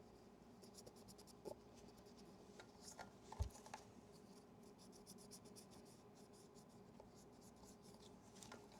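Faint scratching and light clicks of a small camera being handled at a workbench, with one soft thump about three and a half seconds in.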